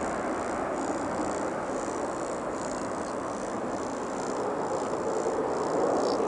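Steady rushing noise of a jet airliner's engines, easing slightly at first and swelling again near the end.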